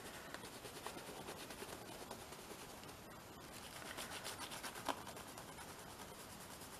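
Faint scratching of a watercolour pencil on a paper page, with one slightly sharper tap about five seconds in.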